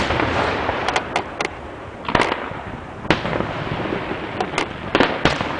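Fireworks going off: about a dozen sharp bangs at irregular intervals, some in quick clusters, over a continuous crackle.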